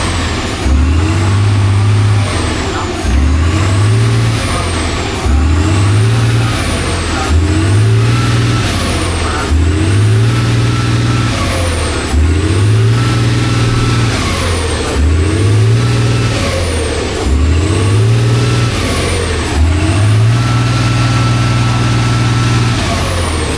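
Heavy off-road truck engine revving hard and dropping back over and over, about every two seconds, as the truck works under load, with a high whine rising and falling in step with each rev.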